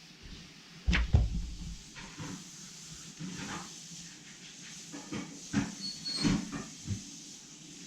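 A loud knock about a second in, followed by scattered lighter taps and clicks of hard objects being handled.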